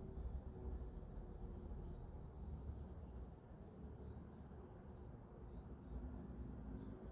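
Birds chirping, with many short, high chirps scattered throughout, over a steady low background rumble.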